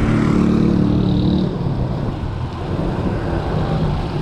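A motor vehicle's engine droning steadily close by for about the first second and a half, then fading, over continuous wind and road noise on the rider's camera microphone.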